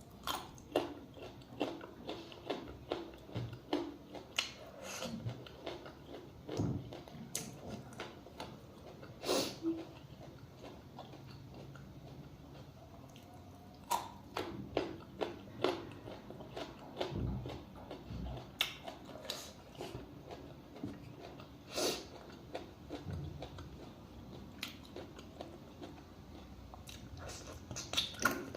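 A person chewing and biting food close to the microphone, with many short, sharp wet mouth clicks that come in clusters, with quieter stretches between.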